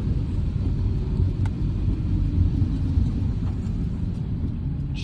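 Steady low rumble inside a car driving through a heavy downpour: rain beating on the car's body mixed with road and tyre noise.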